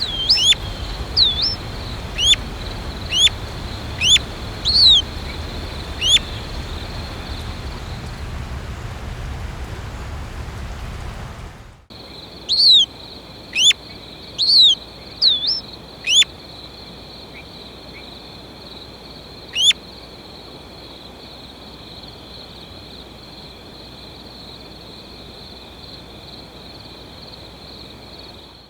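Short, sharp bird chirps repeated every second or so over a steady high-pitched hum and background hiss. About twelve seconds in the sound cuts out for a moment; after that the low rumble is gone and the chirps go on more sparsely.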